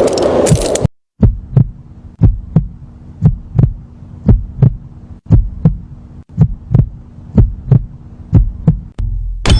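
Heartbeat sound, paired lub-dub thumps about once a second over a faint steady hum. It follows a loud crackling noise that cuts off about a second in, and a noisy passage begins again near the end.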